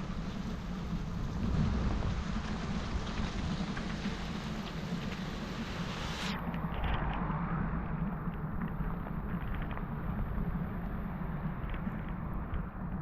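Heavy rain falling, with wind buffeting the microphone as a steady low rumble. About six seconds in, the sound suddenly turns duller as its high hiss cuts off.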